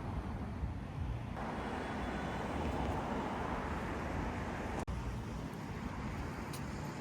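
Steady road traffic noise: a continuous rush of passing cars over a low rumble. It cuts out for an instant about five seconds in.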